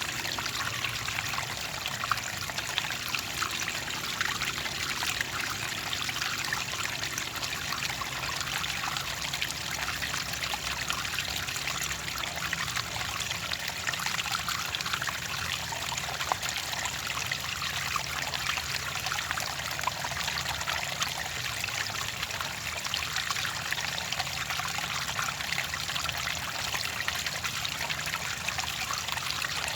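Clear water trickling and splashing steadily, a busy patter of small drips and splashes.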